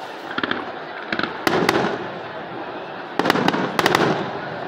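Aerial firework shells bursting overhead: sharp bangs and crackles in quick clusters, about half a second in, around a second and a half in, and a longer run from about three to four seconds in, over a continuous rumble from the display.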